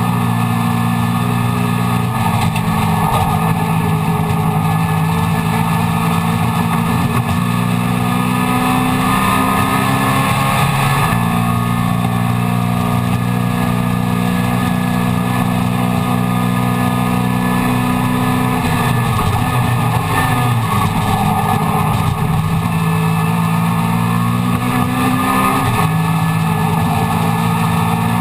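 Mini Miglia race car's A-series engine running hard at racing revs, heard from inside the cabin. Its pitch steps down about a third of the way in, dips and then climbs again past the middle, and drops once more near the end as the car brakes, shifts and accelerates.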